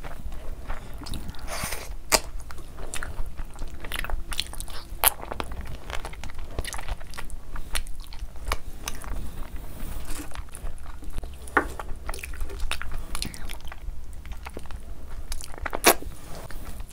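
Close-miked eating: a person bites and chews mouthfuls of curry-soaked meat and pulao rice. Many short wet clicks and smacks come from the mouth, with a few sharper louder ones; the loudest comes near the end.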